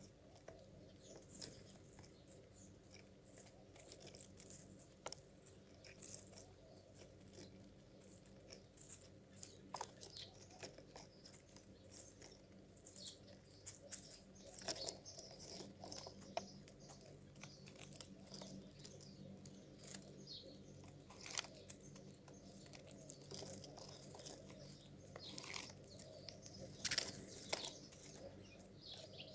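A bird feeding: faint, irregular crunching and clicking with a few short chirps, over a low steady hum.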